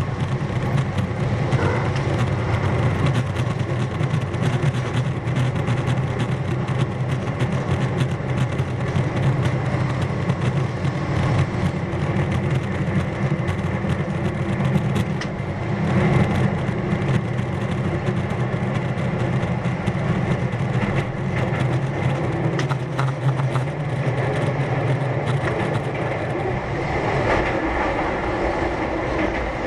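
Keihan 1000 series electric train heard from inside the car while running: a steady low rumble of wheels on rail with scattered clicks over the rail joints. The low rumble eases a little near the end.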